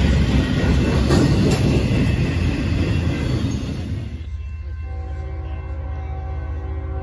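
Double-stack intermodal freight train rolling past close by, its wheels and cars making a loud, continuous rumble. About four seconds in, this gives way to a distant approaching train with a steady multi-note locomotive horn held through the rest.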